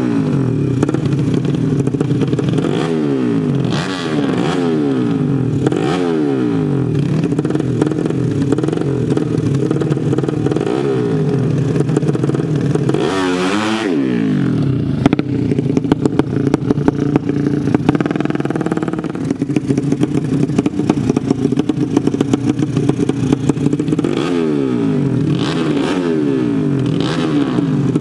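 Drag-racing motorcycle engines running loud and continuously, with repeated sharp revs whose pitch sweeps up and falls back, the strongest about halfway through, and several more near the end.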